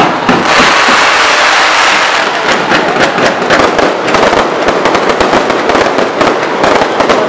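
Fireworks going off close by. A loud hissing rush from sparking fountains starts about half a second in, then dense, rapid crackling and popping runs through the rest.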